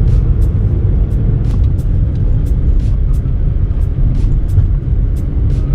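Motorcycle on the move: a loud, steady low rumble of engine and air rushing past the microphone.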